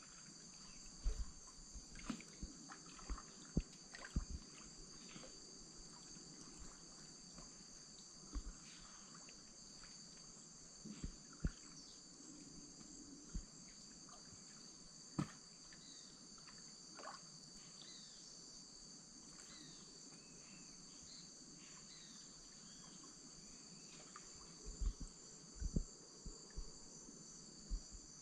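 Steady, high-pitched chorus of insects in Amazonian wetland forest, with scattered knocks and small splashes from a wooden canoe paddle, bunched near the start and again near the end.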